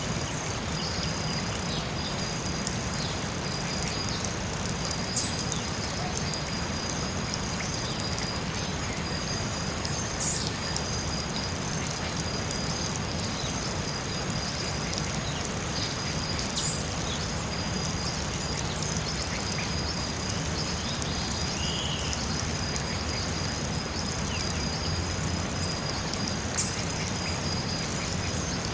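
Forest soundscape: a steady hiss under a continuous high-pitched hum, with four short, sharp high calls spread several seconds apart.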